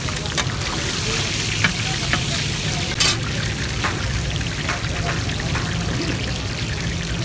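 Chapli kababs and chicken pieces sizzling in a wide, shallow pan of hot oil, a steady hiss with a few sharp clicks, the loudest about three seconds in. A steady low rumble of street noise lies underneath.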